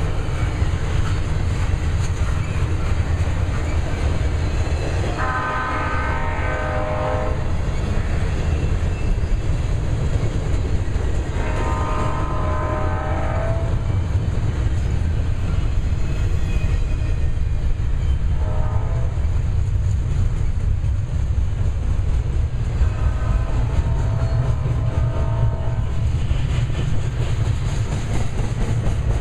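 Double-stack container train rolling past with a steady low rumble. From the head end, the lead GE Dash 9 (C44-9W) locomotive's horn sounds the grade-crossing signal: two long blasts, a short one, then a long one.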